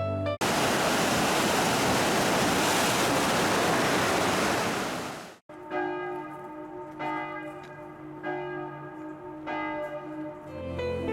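A loud, even rush of water starts abruptly and cuts off sharply after about five seconds. Gentle music with chiming, bell-like tones follows.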